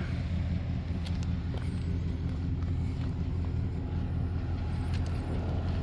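A Ford E350's 5.4-litre V8 engine idling steadily with a low, even hum.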